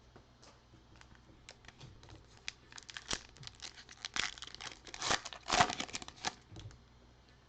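A trading-card pack's plastic wrapper being torn open and crinkled, in irregular crackles that are busiest and loudest in the middle.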